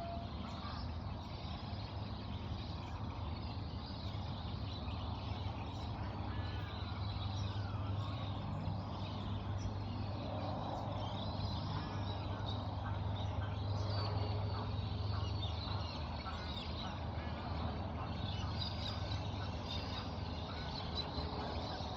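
Many birds chirping and calling, short notes and quick glides overlapping, over a steady low rumble that swells through the middle of the stretch.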